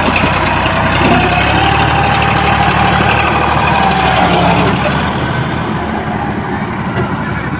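Heavy diesel engine running steadily at low revs, with a faint whine from about one to four and a half seconds in. It eases off slightly near the end.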